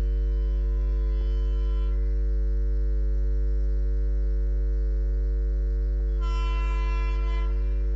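A steady, loud electrical hum with many overtones and no change in pitch. About six seconds in, a higher tone joins for about a second and a half.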